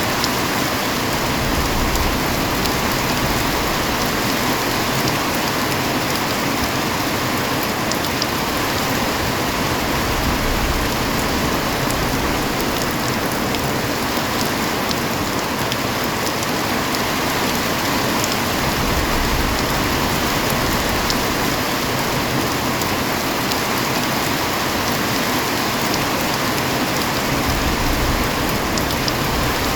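Steady heavy rain falling and hitting surfaces, an even hiss with scattered drop ticks and a soft low rumble that swells now and then.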